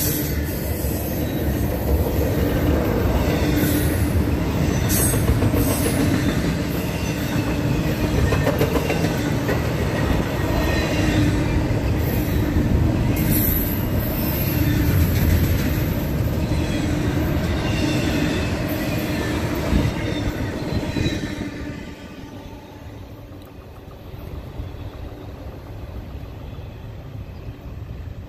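CSX double-stack intermodal well cars rolling past at speed: steady wheel-and-rail rumble with clicks over the rail joints and thin, intermittent wheel squeals. About 21 seconds in the last car goes by and the rumble falls away quickly to a much quieter background.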